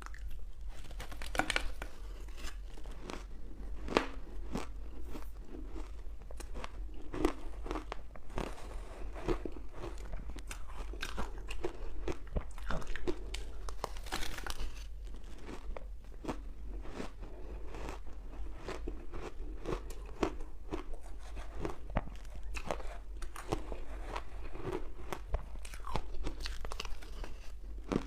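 Crunchy ice cubes dusted with matcha powder being bitten and chewed close to the microphone: a quick, irregular run of sharp crunches.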